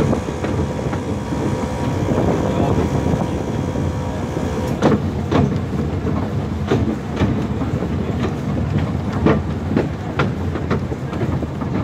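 Narrow-gauge train running slowly with a steady low rumble, its wheels clicking irregularly over rail joints and pointwork from about five seconds in.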